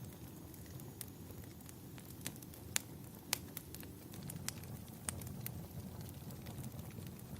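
Wood fire crackling in a fireplace: irregular sharp pops and snaps, a dozen or so, over a steady low rumble.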